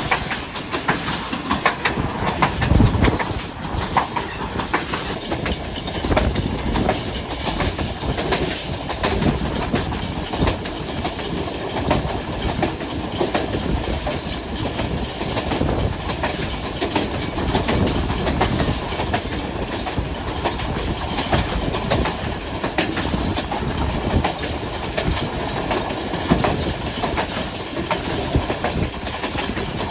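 Hazara Express passenger train running along the line: a steady rumble full of the clickety-clack of wheels over rail joints, with one heavier jolt about three seconds in.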